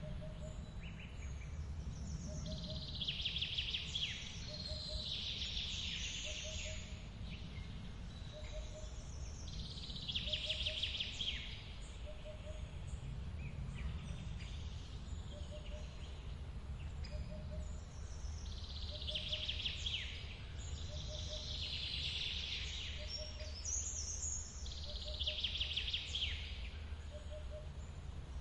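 Forest birds singing in bursts of dense, rapid song every few seconds, over a steady low rush of running water. A short low note repeats about once a second throughout.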